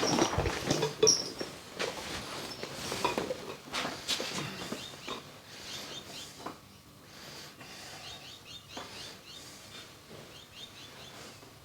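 A run of knocks and clattering handling noise in the first few seconds, then quieter, with a small bird chirping in quick series of short falling notes.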